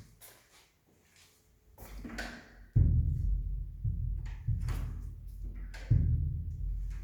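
Deep, booming low sounds like bass drum or timpani hits, each starting suddenly and fading slowly: one about three seconds in and another about six seconds in. Faint clicks and knocks come before them.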